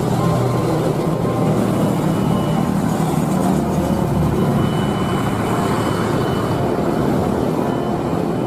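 Steady vehicle or engine noise: a continuous dense rumble with no breaks.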